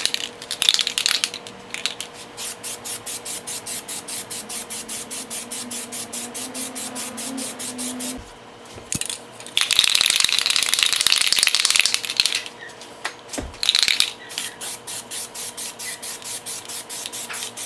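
Aerosol can of Plasti Dip being shaken, its mixing ball rattling at about four strokes a second, between bursts of spraying. The longest spray is a steady hiss of about two and a half seconds, ten seconds in, with shorter bursts near the start and around fourteen seconds.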